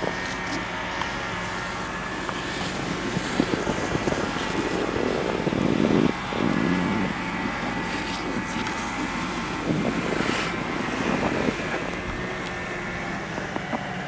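Snowboards scraping and sliding over packed snow in repeated swishes, loudest about halfway through, over a steady mechanical hum.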